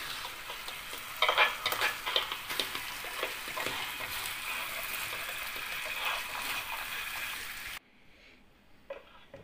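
Crab in a thick butter and salted-egg milk sauce sizzling in a wok, stirred and scraped with a metal spatula, with a few clattering scrapes in the first couple of seconds. The sizzle cuts off suddenly near the end.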